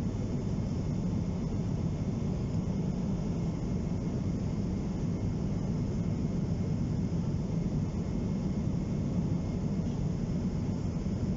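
Steady low rumble of cabin noise inside a Boeing 777-200 airliner in flight: engine and airflow noise heard from a passenger seat.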